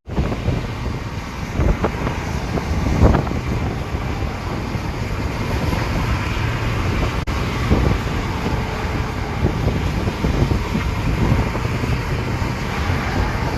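Steady rumbling vehicle noise with wind buffeting the microphone, and a couple of louder knocks about two and three seconds in.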